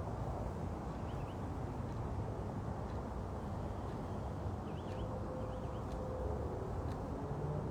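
Outdoor background: a steady low rumble, with a few short, faint bird chirps about a second in and again around five seconds in.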